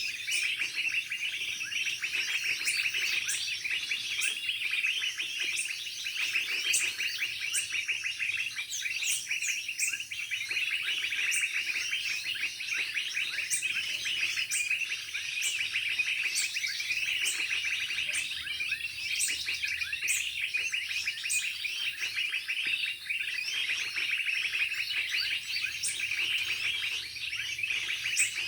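Small birds chirping and twittering in a dense, unbroken chatter, with short sharp high notes recurring about once a second.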